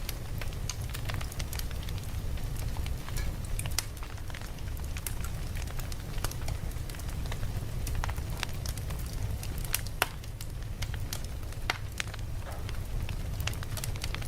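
Campfire burning, crackling with frequent irregular sharp pops over a steady low rumble.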